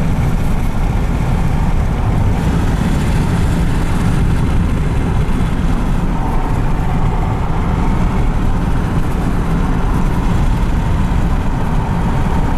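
Steady road and engine noise inside the cabin of a moving car, a dense low rumble that holds even throughout.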